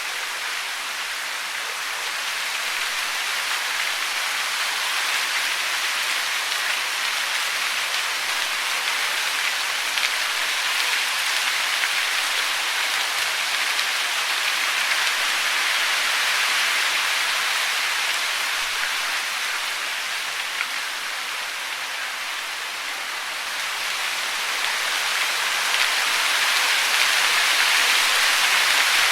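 Steady rushing of falling water, an even hiss with no birdsong heard, growing somewhat louder over the last few seconds.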